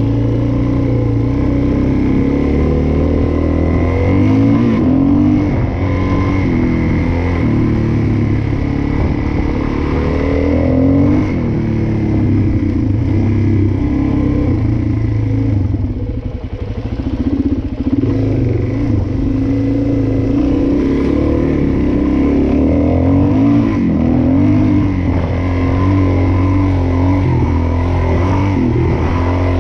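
Suzuki DR-Z400S single-cylinder four-stroke dual-sport engine running under load, its revs rising and falling with the throttle. The throttle is eased off briefly about halfway through.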